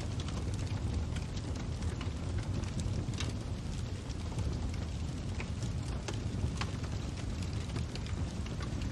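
Crackling fire: irregular sharp pops and crackles over a steady low rumble of burning.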